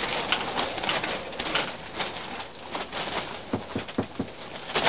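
A tarp flapping and snapping in strong wind, in an irregular run of sharp slaps and rattles with a few duller thumps near the end.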